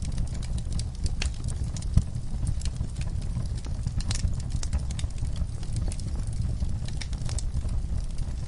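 Wood fire burning in an outdoor fireplace, crackling with irregular sharp pops over a steady low rumble of flame. One louder pop comes about two seconds in.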